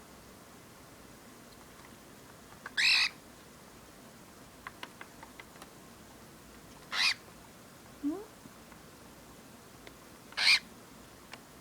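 Cockatiel growling: three short raspy growls, a few seconds apart, with a few faint clicks between them.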